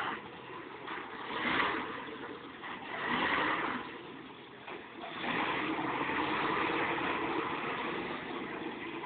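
Vintage Ford 601 Workmaster tractor's engine working under load while pulling a semi truck. It swells twice, then runs louder and steadier from about halfway.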